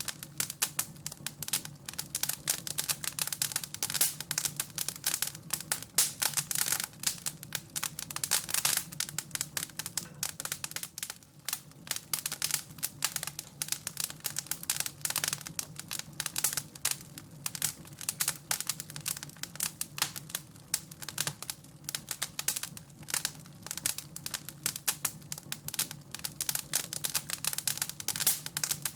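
Wood fire crackling in a fireplace: a continuous, irregular stream of sharp crackles and pops, over a faint low steady hum.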